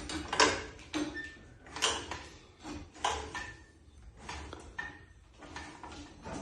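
Irregular knocks and clunks, roughly one a second, some with a short high squeak, from a jack and a garage door opener unit being raised and set into place.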